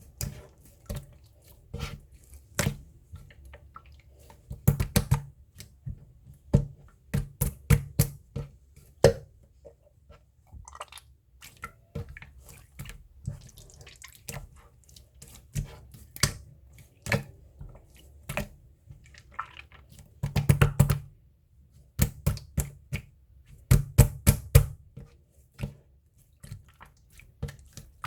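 Slime being squeezed and kneaded by hand, making irregular wet clicks and pops, often several in quick succession.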